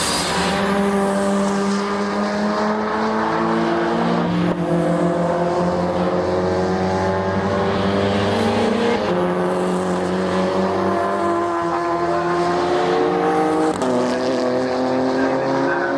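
Racing car engine at full throttle, its pitch climbing steadily and dropping at upshifts about four and a half, nine and fourteen seconds in.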